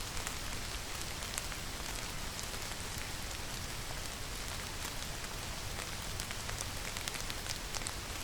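Steady rainfall with the sharp ticks of single drops striking a surface here and there, a few more of them near the end.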